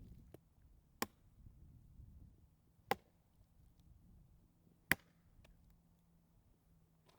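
Wood knocking, the signal Bigfoot hunters use, struck by hand on wood. Three sharp single knocks land about two seconds apart, and the last is the loudest.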